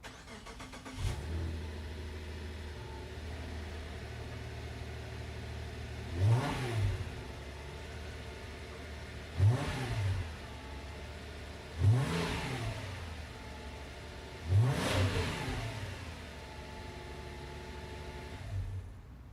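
Exhaust of a 2016 Subaru Outback 3.6R's flat-six through its stock mufflers. The engine starts about a second in, idles, and is blipped four times, each rev rising and falling quickly.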